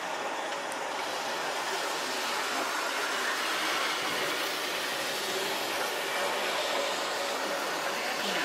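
Steady running noise of an electric train on the move.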